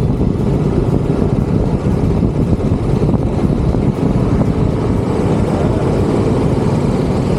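Royal Enfield Bullet 350's single-cylinder engine running steadily while the motorcycle is ridden along the road.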